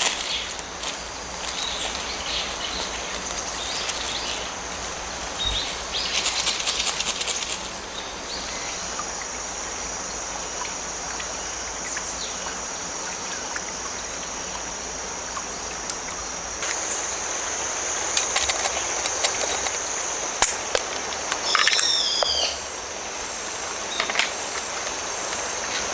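Stream water flowing under a steady high trill of autumn crickets, with scattered clicks and short rustling knocks. A bird gives a short run of quick falling chirps about 21 seconds in.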